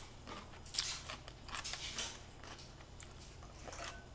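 A person chewing a bite of chonggak (young radish) kimchi, with several short, sharp crunches in the first two seconds, then quieter chewing.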